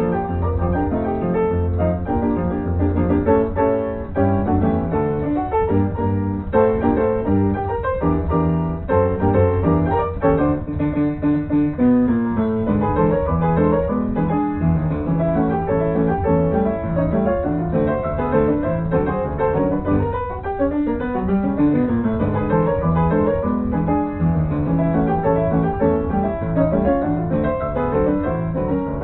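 Piano music playing steadily, with a moving melody over chords and a low bass.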